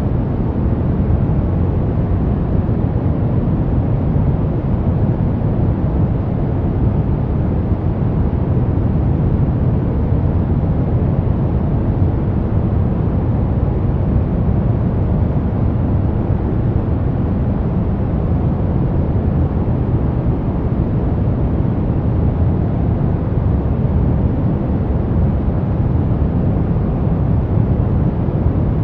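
Brown noise: a steady, deep rumbling hiss, strongest in the bass and falling off toward the treble, unchanging throughout.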